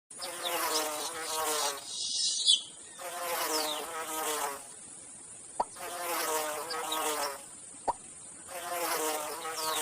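Buzzing insect, like a fly or mosquito, in four bursts of a second or two each with short pauses between, and a couple of brief clicks in the pauses.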